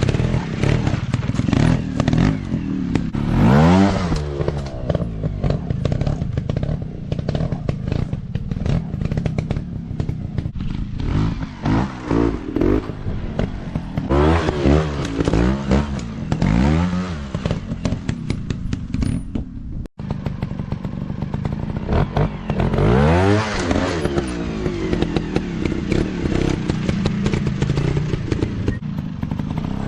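Dirt bike engines revving hard again and again, the pitch sweeping up and dropping back about six times, with clattering and crackling under the engine noise. The sound breaks off for an instant about two-thirds of the way through.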